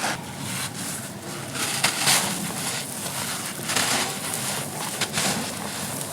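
Dry, grainy bucket-moulded shapes being crumbled and crushed, making irregular gritty crunches and crackles, with a few louder crunches along the way.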